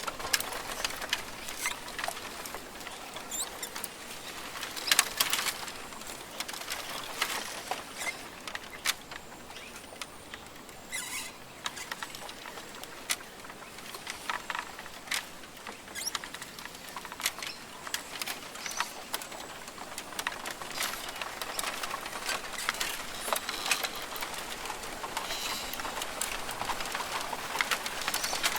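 Rainforest ambience: a steady high hiss with irregular patter and clicks throughout, and a few faint bird chirps.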